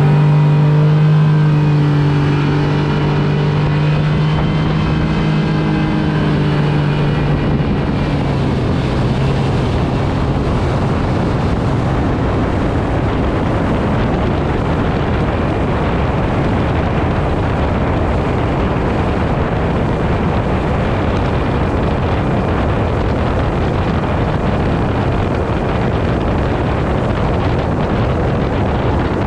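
Yamaha 225 outboard motor running flat out at high speed. Its steady engine note is clear for the first several seconds, then is mostly buried under a loud rush of wind on the microphone and water noise.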